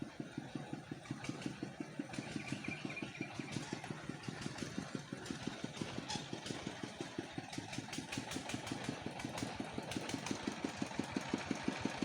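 Small engine running at idle with an even, rapid beat of about six pulses a second, getting slightly louder near the end.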